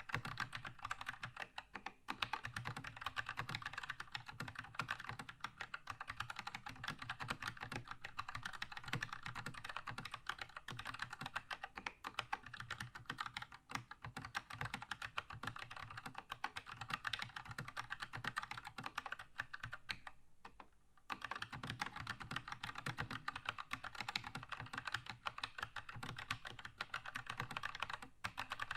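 Fast, continuous typing on a Keychron K2 mechanical keyboard with red linear switches: a dense run of key clacks, with a brief pause about twenty seconds in.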